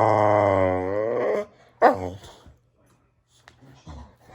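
Boxer dog vocalizing: one long, drawn-out grumbling call whose pitch wavers and dips near its end, then a short sharp call about two seconds in.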